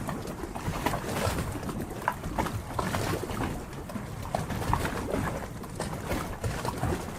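Harbor water lapping, with many small irregular splashes.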